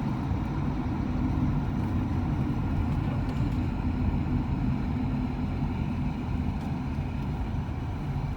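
A road vehicle driving along, heard from inside: a steady low engine and road rumble that holds at an even pitch and level.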